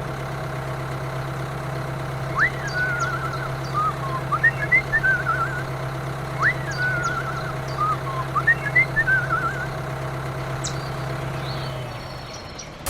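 A steady low motor hum that fades out near the end. Over it, a short whistled phrase of a rising sweep and warbling chirps plays twice, about four seconds apart.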